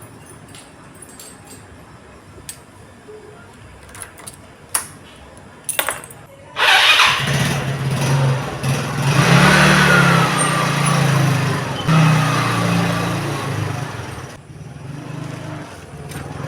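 A few light clicks, then a small engine starts about seven seconds in and runs loudly, its level rising and dipping.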